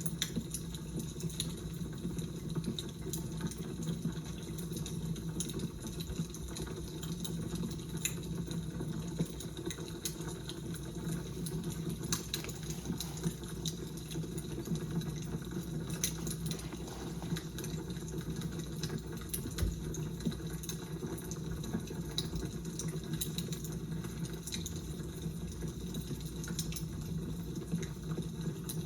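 Fire crackling: a steady low hiss with frequent small, irregular pops and snaps.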